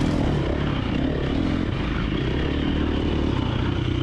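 Dirt bike engines running at low revs: the rider's KTM 350XC-F single-cylinder four-stroke held steady while other riders' bikes go by.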